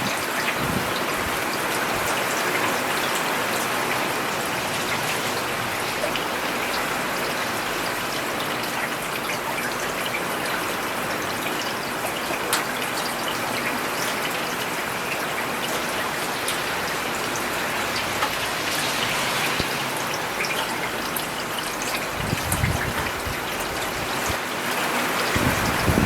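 Steady rain falling on a paved road: an even hiss with scattered sharp drop ticks. A low rumble swells briefly about 22 seconds in.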